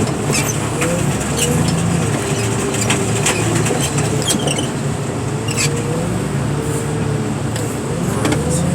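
Diesel engine and hydraulics of a car-crushing machine droning steadily, heard from inside its closed cab. A whine wavers up and down in pitch over the drone, with scattered light ticks.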